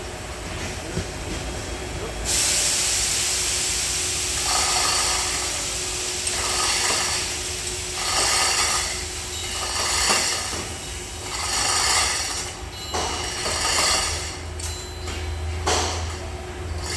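Loud hissing that starts suddenly about two seconds in and then comes in repeated surges, with a few knocks near the end.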